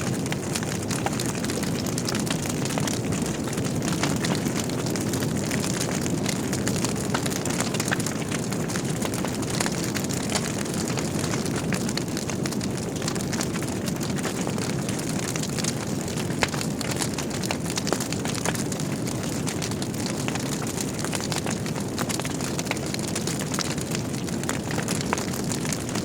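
Logs burning in a wood fireplace: a steady low rush of flame with frequent small crackles and pops, a few of them louder.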